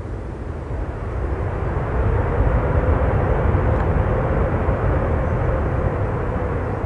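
Boeing 787 jet airliner flying past, its engine noise a deep rumble that swells over the first couple of seconds and then holds loud, with a faint steady hum in it.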